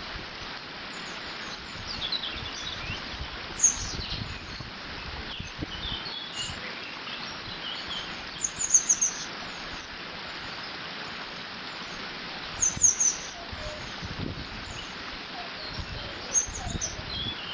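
Water running steadily through a beaver dam, with a bird giving short high chirps, several times in quick runs of three or four notes.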